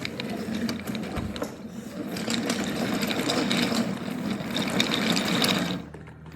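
A small motorised toy train running along its track, its motor and wheels whirring and clattering steadily. It drops away briefly near the end, then starts up again.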